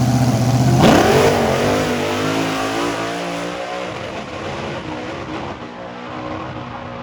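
Drag-racing vehicle's very loud engine holding a steady drone, then about a second in it launches with a sudden burst of revving. The engine sound fades as the vehicle pulls away.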